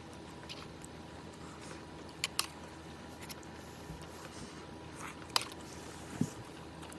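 Quiet eating sounds: soft chewing and a few short sharp clicks, two close together about two seconds in and two more near the end, over a steady low hiss.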